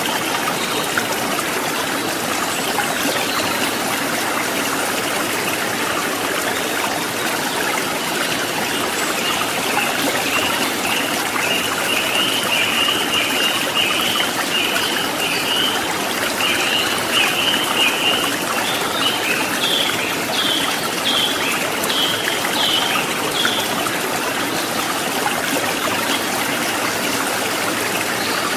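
Flowing stream water trickling and splashing steadily. From about nine seconds in, a run of short, high, rapidly repeated chirps rides over it and turns into higher, sharper notes before stopping a little past twenty seconds.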